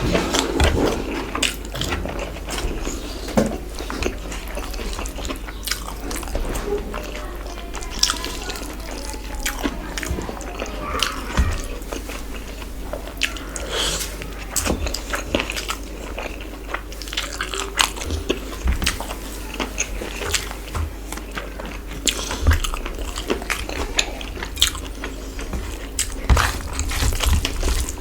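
Close-up eating sounds: a person chewing and smacking through spicy chicken curry and rice, with many irregular wet mouth clicks and bites.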